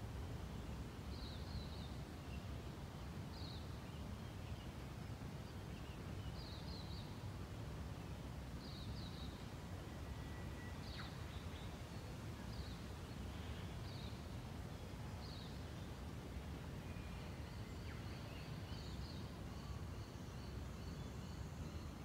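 Outdoor ambience in gum-tree bushland: short, high bird calls repeated every second or two over a steady low rumble. Near the end a thin, steady high tone joins in.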